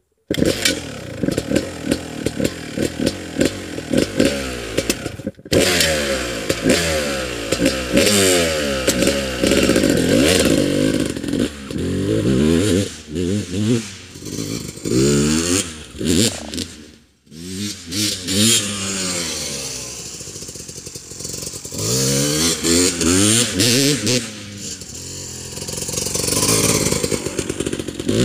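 1996 Honda CR250R's single-cylinder two-stroke engine revving hard as the motocross bike accelerates, its pitch rising again and again through the gears with short drops between. The sound breaks off suddenly twice.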